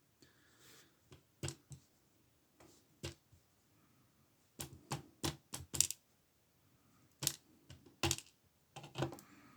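Scattered small clicks and light metallic clinks, some in quick clusters, from handling the opened padlock's lock cylinder and its parts.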